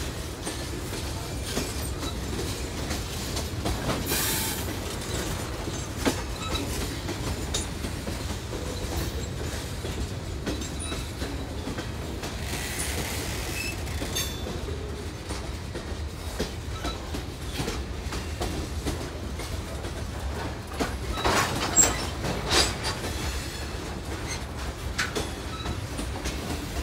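Freight train cars rolling past close by: a steady rumble with scattered wheel clicks. A brief high-pitched noise comes about four seconds in, and a run of loud clanks about two-thirds of the way through.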